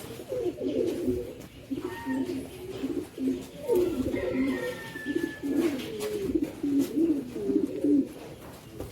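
Birds calling over and over in low, wavering notes, with a faint higher whistled call about two seconds in and again around the middle.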